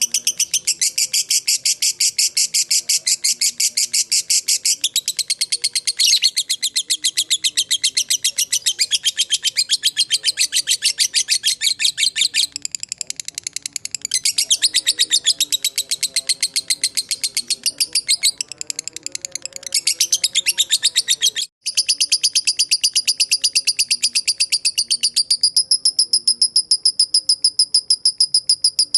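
Lovebird 'ngekek' call: a long, rapid chattering trill of shrill high notes going on without pause, softening a little twice and breaking off for a split second about two-thirds of the way through before carrying on.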